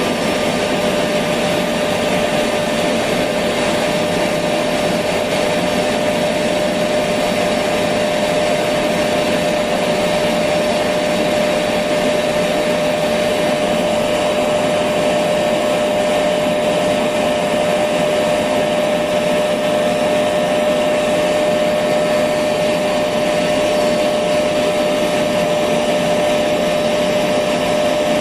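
Electric vacuum cleaner running steadily: a constant rushing hiss with a steady whine on top, unchanging throughout.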